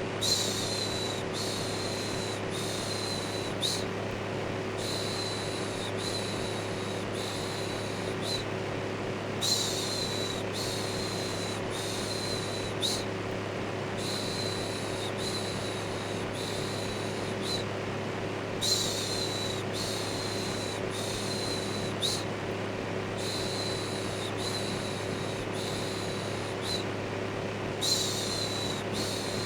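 An electric fan runs steadily with a low motor hum, overlaid with a looped, soothing "shhh" shushing sound. The shushes repeat about once a second, and a louder shush comes round about every nine seconds.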